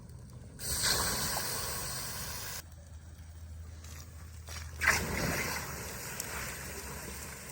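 Two splashes of water thrown onto a burning car tire, each trailing off in a hiss over a couple of seconds, the first about half a second in and the second near five seconds in, with a low steady hum between them.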